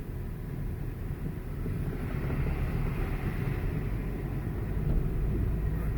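Motor vehicle engine running with a steady low rumble that slowly grows louder, as if a vehicle is approaching.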